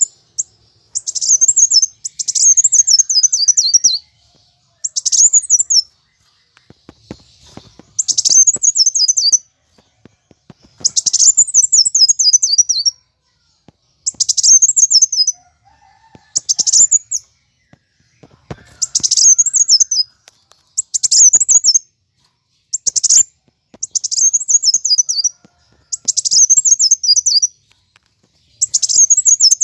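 Kolibri wulung sunbird calling in agitated fighting mode: bouts of rapid, high, down-sweeping chirp trills, each a second or two long, repeated about every two seconds.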